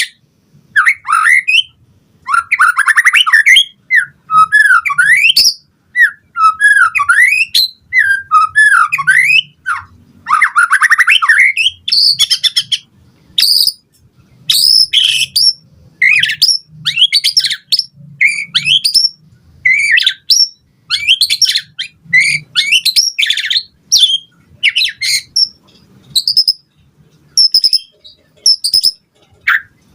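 White-rumped shama (murai batu) singing in full voice: a rapid run of short, varied phrases of sweeping whistles, trills and chattering notes, with brief pauses between them.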